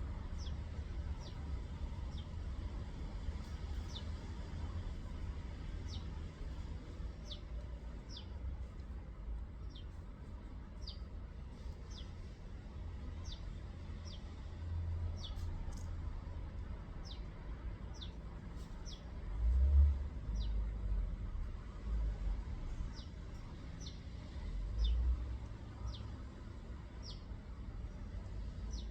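A bird repeating a short, high, downward-slurred call note about once a second, over a low rumble with a couple of dull thumps.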